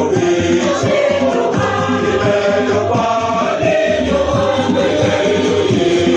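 Choir singing a hymn with instrumental backing and a steady beat.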